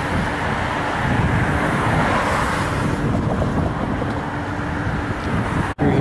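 Virginia Railway Express bilevel commuter train rolling away along the tracks: a steady rumble. It breaks off in a brief dropout near the end.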